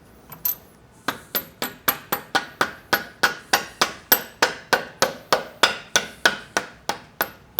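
Mallet tapping the steel swing-arm pivot shaft of a Triumph Bonneville T120 back through the swing arm: a rapid, even series of about two dozen knocks, about four a second, each with a short metallic ring.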